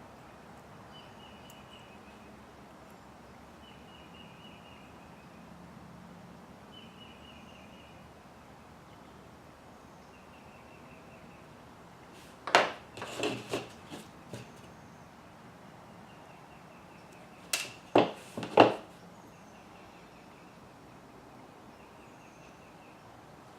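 Two short bursts of sharp clicks and clatter, about five seconds apart, from small parts being handled while screws are fitted into an RC truck's transmission. Faint high chirps repeat evenly underneath.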